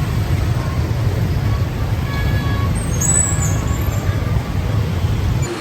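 Motor vehicle noise: a loud, steady low rumble with faint high squeals about three seconds in, cutting off abruptly at the end.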